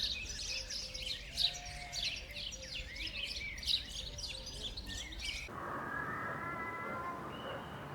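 Many small birds chirping rapidly and overlapping, in a dense flock chorus. About five and a half seconds in it cuts off suddenly, and a steady hiss with faint drawn-out higher tones takes over.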